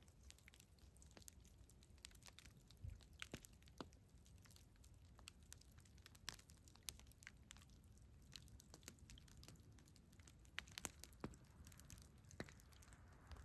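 Campfire crackling faintly: irregular small pops and snaps of burning wood, a few louder ones scattered through, over a low rumble.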